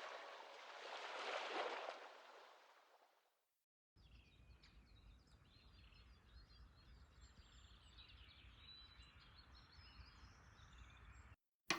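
Near silence: a fading tail of music dies away in the first few seconds, then faint outdoor ambience with a few faint high bird chirps.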